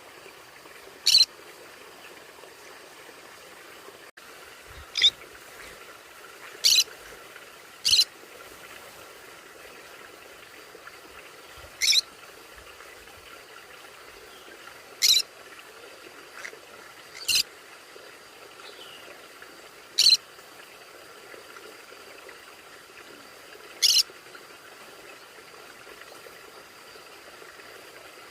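Conure calls: short, sharp high-pitched squawks, about ten in all, coming singly every one to four seconds over a faint steady hiss.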